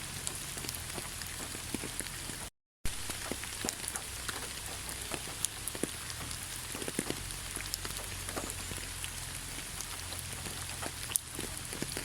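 Steady rain with scattered drops ticking on a surface. The sound cuts out completely for a fraction of a second about two and a half seconds in.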